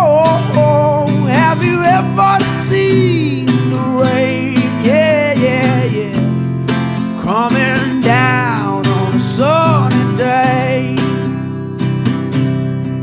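Music: an acoustic guitar strummed in a steady country rhythm, with a melody line above it that bends in pitch.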